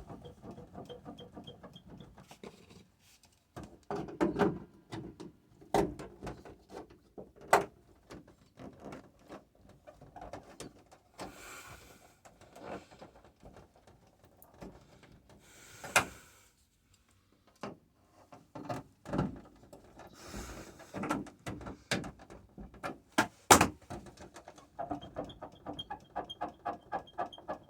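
Clicks, knocks and metallic clanks of hand tools tightening fasteners on a Mercedes T1N Sprinter's rear cargo door, to stop a squeak. There is a scattered series of sharp knocks, with the loudest near the middle and about two-thirds in, and a quick run of even clicks near the end.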